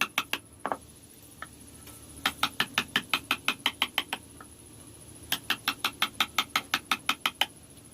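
Small hammer tapping a carving chisel into wood in quick, even runs of about six strikes a second, with short pauses between the runs.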